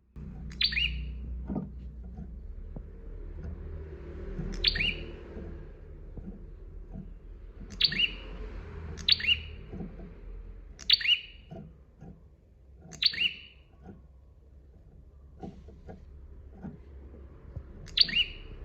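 Prenjak (prinia) calling: about seven short, sharp call notes spaced irregularly, each sweeping quickly down in pitch. A low steady rumble and faint soft ticks lie underneath.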